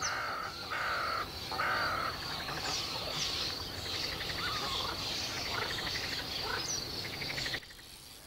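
Wetland ambience: several birds calling, with harsh calls in the first two seconds and then short chirps and whistles, over a steady high insect trill. It cuts off abruptly near the end.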